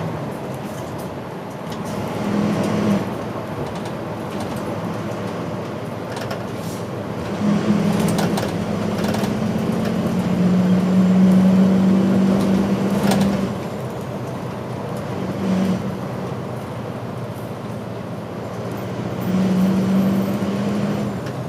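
City route bus running, heard from inside: a steady low diesel engine drone over road noise. The engine tone swells briefly a couple of seconds in, for about six seconds in the middle, and again near the end. A few faint clicks sound from inside the bus.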